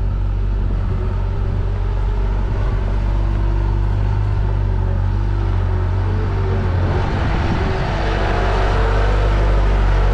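Diesel engine of a compact construction machine running steadily under work. About seven seconds in it grows louder and harsher as it revs up or takes on load.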